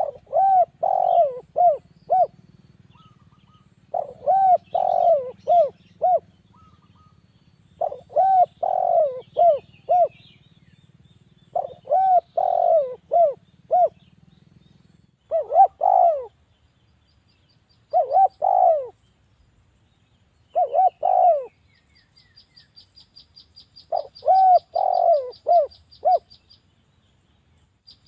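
Spotted dove (derkuku) cooing: a repeated phrase of about five notes, roughly every three to four seconds. In the last few seconds a faint, fast series of high chirps, about six a second, runs underneath.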